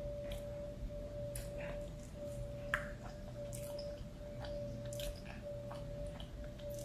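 Close-miked mouth sounds of chewing a mouthful of rice: scattered soft wet clicks and smacks, the sharpest about two and a half seconds in, over a steady faint hum.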